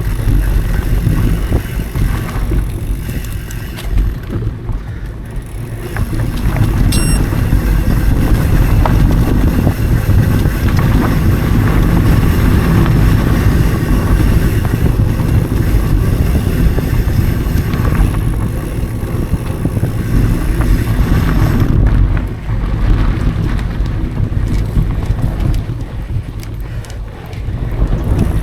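Wind noise on an action camera's microphone as a mountain bike rolls fast over dry dirt singletrack, with tyre rumble and rattles from the bike. It grows louder a few seconds in and drops back near the end.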